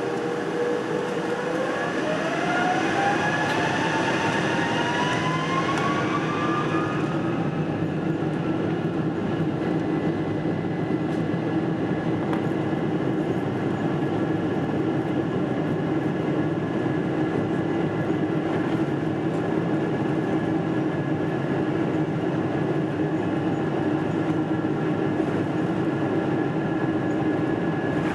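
Boeing 777-300 cabin noise heard from inside the cabin: a steady rumble with a jet engine's whine rising in pitch over the first seven seconds or so, then holding at a steady tone as the engine spools up.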